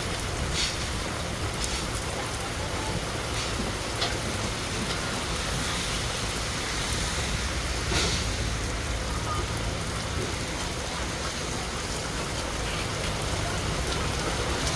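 Heavy rain pouring steadily in a thunderstorm, an even hiss with a few sharp taps of drops or impacts, the loudest about eight seconds in.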